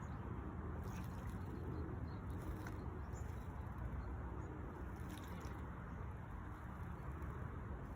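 Steady low outdoor rumble with a few faint, short, high chirps from small birds scattered through.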